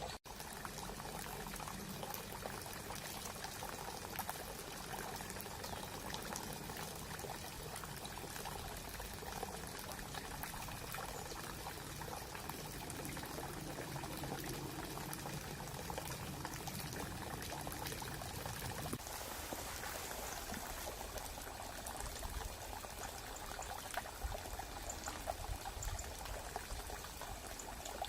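Small brook trickling and gurgling steadily, a continuous bubbling water noise. About nineteen seconds in, its deepest gurgle drops away.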